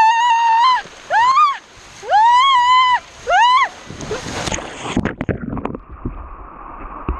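A woman screaming four times in high, drawn-out cries while sliding down a water-covered rock slide, then a splash and rushing water as she hits the pool about four seconds in, after which the water sound turns dull and muffled.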